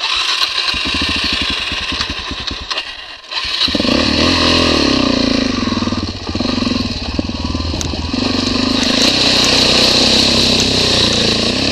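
Motorcycle engine running at low revs with an even putter, then opening up loudly about three and a half seconds in and labouring with rising and falling revs as the bike is pushed through a deep water crossing.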